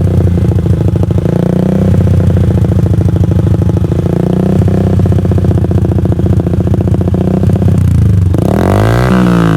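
Yamaha New Vixion Advance's 150 cc single-cylinder four-stroke engine running steadily near idle through a custom Akrapovic GP Lorenzo-style aftermarket exhaust, with a deep pulsing note. The engine sound drops away about eight seconds in as music starts.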